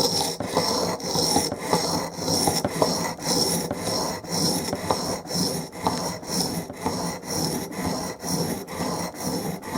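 Chisel in a wheeled honing guide being rubbed back and forth on an oiled sharpening stone: a steady rasping scrape in even strokes, about two a second.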